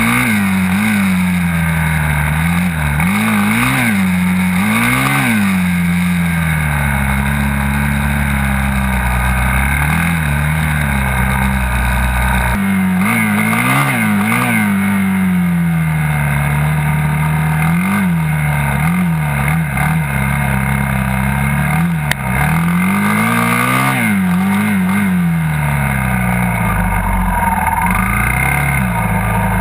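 Dirt bike engine running, revving up and falling back again and again, its pitch rising and dropping every few seconds.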